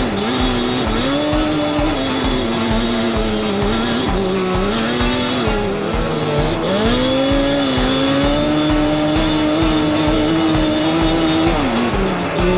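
Yamaha Banshee's two-stroke twin engine revving up and down as it is ridden, its pitch rising and falling, over background music with a steady beat.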